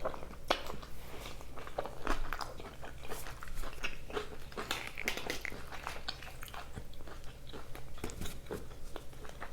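A person biting and chewing carne asada fries close to the microphone: many short, irregular mouth clicks and crunches.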